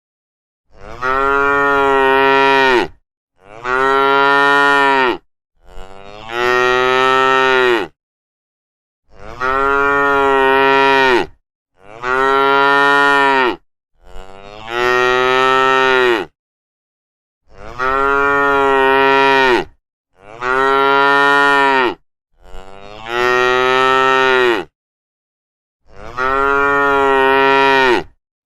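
Cows mooing: a run of about ten long moos, each lasting about two seconds, one after another with short silent gaps between them.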